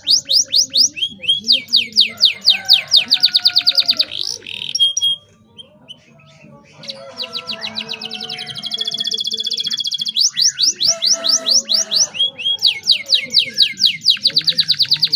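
Domestic canary singing a loud, vigorous song of fast trills, each a rapid run of repeated notes, with a short pause about five seconds in before the trilling resumes.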